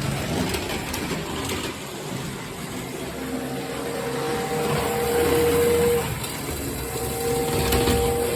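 A Lionel toy trolley running on three-rail O-27 track, a steady rattle of wheels over the rails. From about three seconds in its motor adds a low hum and a steady whine, which breaks off briefly partway through.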